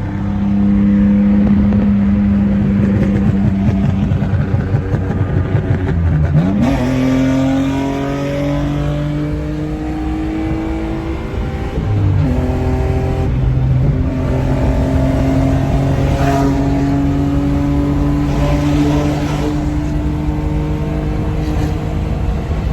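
Car engine running under way, its note stepping abruptly twice, about six and twelve seconds in, and climbing slowly in between.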